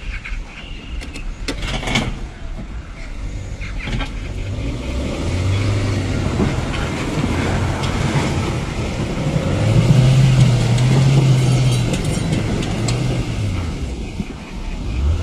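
A car engine revving in several surges under load while pulling, loudest about two-thirds of the way through.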